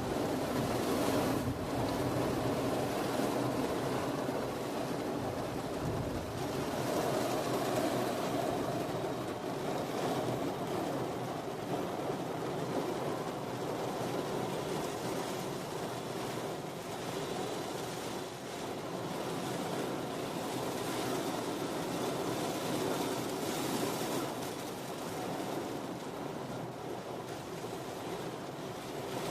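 Heavy rain pouring steadily on a parked car, heard from inside the car.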